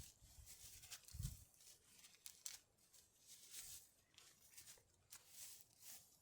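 Quiet, scattered rustles and soft clicks, with a low thump about a second in.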